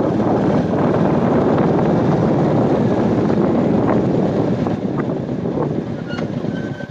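Wind rushing over the microphone, a dense steady roar that eases a little near the end.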